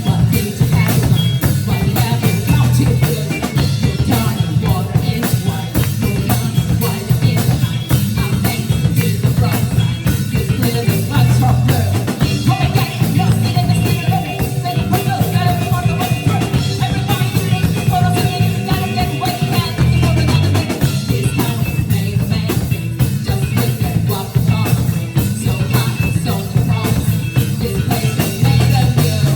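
A live band playing rock music with drum kit, bass and guitar, a sung or held melody line running through the middle.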